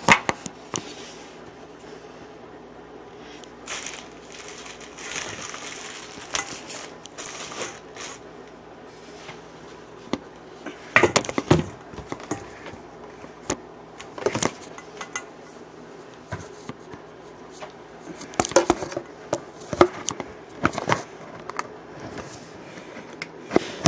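Irregular knocks, clicks and rustles of things being handled and set down on a kitchen counter as a camera is set up, with a faint steady hum underneath.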